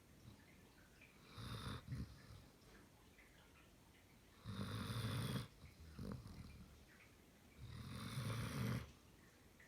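German Shepherd dog snoring in its sleep: three snores about three seconds apart, each lasting about a second.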